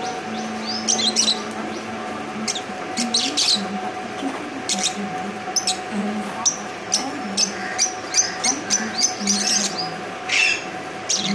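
Birds chirping: many short, high chirps and calls in quick clusters all through, over a steady faint hum.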